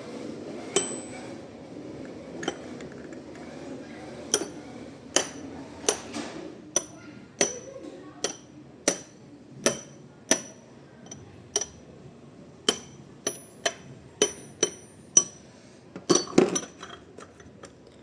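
New engine oil being poured from its bottle through a funnel into a small motorcycle engine: a string of sharp clinks, roughly one a second and closer together near the end, over a faint pouring rush in the first few seconds.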